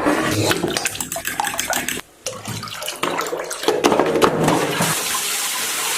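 Water running with a steady hiss that begins about five seconds in, after a stretch of irregular clicks and knocks.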